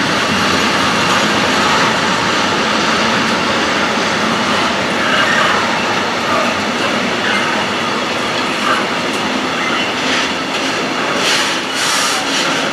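Freight train wagons, container flats and pressurised gas tank cars, rolling past close by: a steady rumble and hiss of steel wheels on rail, with some wheel squeal a few seconds in and a rhythmic clatter of wheels over rail joints near the end.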